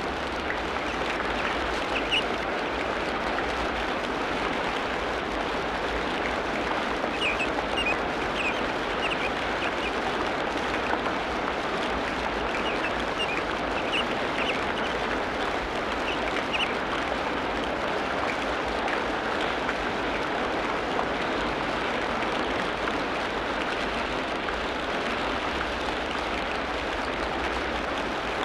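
Tropical rainforest ambience: a steady wash of rain-like hiss, with a few short bird chirps now and then.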